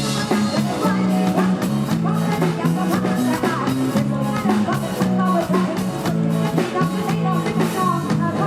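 Live Isan band music played loud, with a steady drum beat over a repeating bass line.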